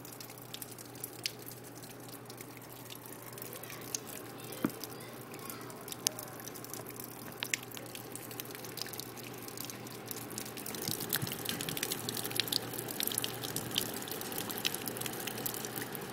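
Rain falling, with drops striking nearby surfaces as sharp ticks scattered through the steady patter. The rain grows heavier and the ticks come thicker about ten seconds in.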